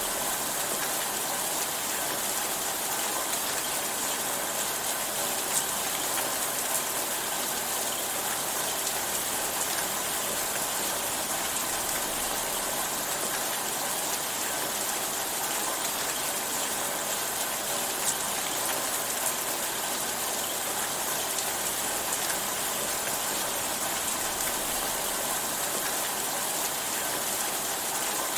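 Steady rainfall, an even hiss of rain with a few faint individual drops ticking.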